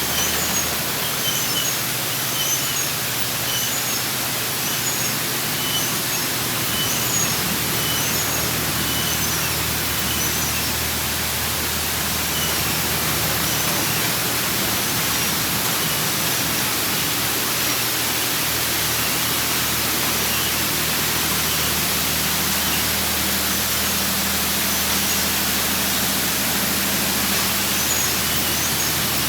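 Automatic car wash running over the car: a steady, even hiss of water jets spraying the vehicle, with a low machine hum underneath.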